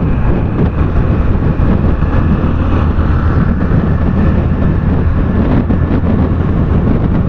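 Steady noise of a motorcycle ride at speed: wind rushing over the microphone with the engine running underneath.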